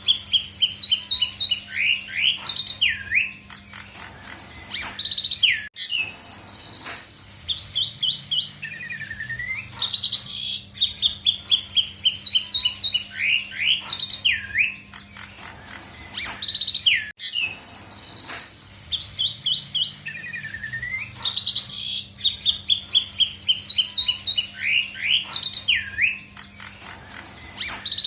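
Asian pied starling (jalak suren) singing a varied song of rapid chattering notes and sweeping whistles, packed with mimicked phrases. The same phrase sequence comes round about every eleven seconds, as in a looped recording.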